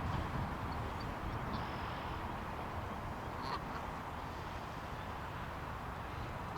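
A few short calls from waterfowl, one about a second and a half in and another about three and a half seconds in, over a steady low background rumble.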